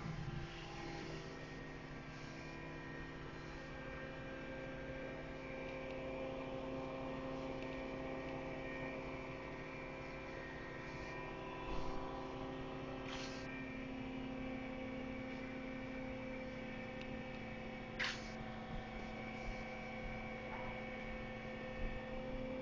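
Crane engine running with a steady hum, pitch held level throughout, broken by two brief sharp sounds about 13 and 18 seconds in.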